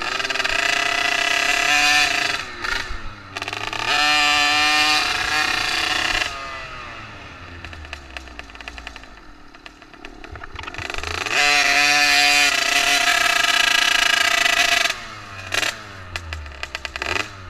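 Small dirt bike engine running under throttle as the bike rides by. It fades away with falling pitch in the middle, comes back loud about eleven seconds in, and drops off again near the end.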